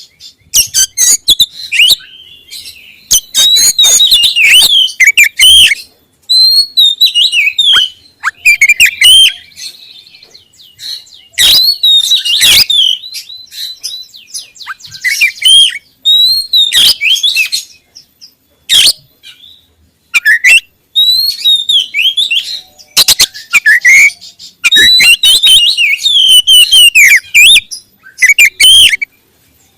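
Oriental magpie-robin (kacer) singing loudly: rapid, varied whistled phrases mixed with sharp clicking notes, broken by short pauses.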